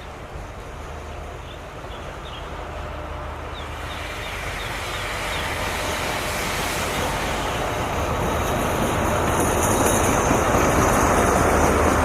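A diesel-electric locomotive-hauled train, the Eastern and Oriental Express behind an SRT Alsthom locomotive, rolling into the station and growing steadily louder. Faint high wheel squeals join in over the last few seconds.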